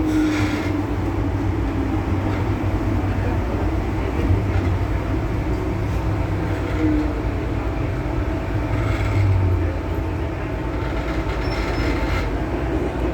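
MTR Tsuen Wan Line M-Train running between stations, heard on board. A steady rumble with a faint continuous hum eases off slightly near the end.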